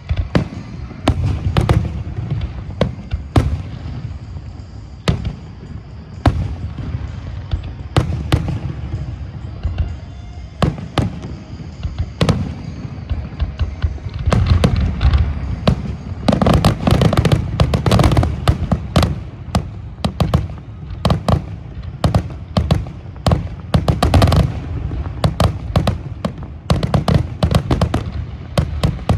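Aerial fireworks display finale: a barrage of shell bursts and bangs over a low booming rumble, growing much denser about halfway through into near-continuous volleys.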